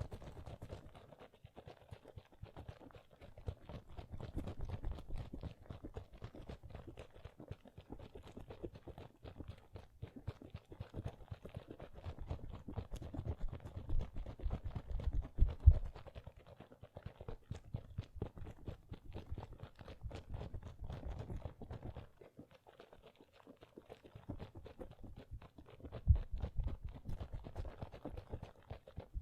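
Close-miked ASMR trigger sounds: a dense, continuous run of small crackling clicks, with heavier knocks about halfway through and again near the end.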